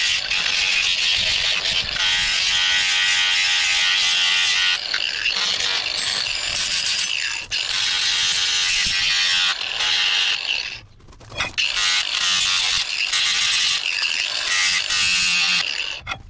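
Handheld grinder grinding rust off a steel crowbar, a steady high-pitched grinding noise that eases off briefly about eleven seconds in and then resumes.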